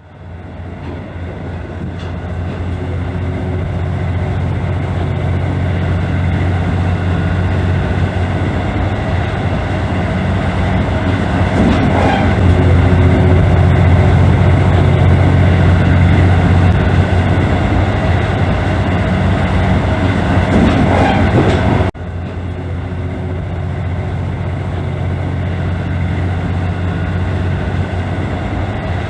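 Diesel railcar engine running under load, a deep steady drone with the train's running noise, growing louder over the first ten seconds or so. About 22 seconds in the sound breaks off abruptly and resumes at a slightly lower, steady level.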